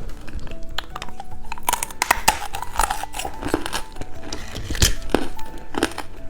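Plastic candy wrapper crinkling as it is handled, many short crackles, over background music.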